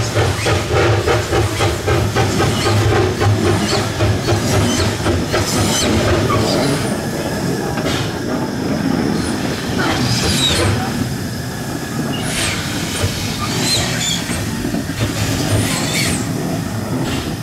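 Two-foot-gauge Hudswell Clarke steam locomotive working along the line, its exhaust beating rapidly for the first few seconds, then easing off. From about six seconds in, its wheels squeal on the rails in short, high, repeated chirps over the running rumble.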